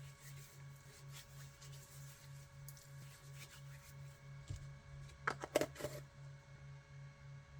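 Faint scratching and rubbing sounds with a quick cluster of sharp clicks a little over two-thirds of the way in, over a steady low pulsing hum.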